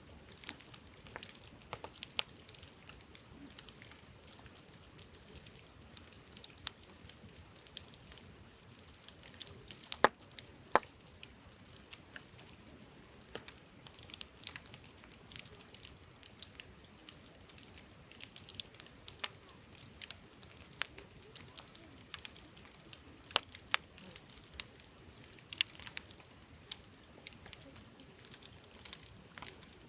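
Wood campfire crackling, with irregular sharp pops and snaps; two louder pops come close together about ten seconds in.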